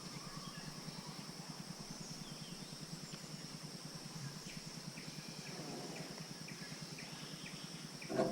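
Forest ambience: a steady high insect drone with a few faint, short bird chirps over a low steady hum, and a brief louder sound near the end.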